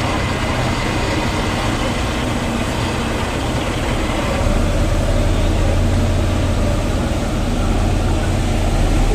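Ferry's engine running with a steady low drone over a wash of noise; the low hum grows stronger about halfway through.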